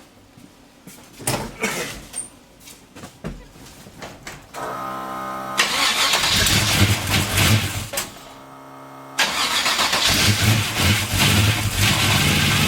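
383 stroker V8 being cranked over by the starter after a distributor adjustment, firing and running loudly for about two seconds, falling back to cranking, then catching again and running. It makes a lot of mechanical noise, which the owner traces to gear-drive timing.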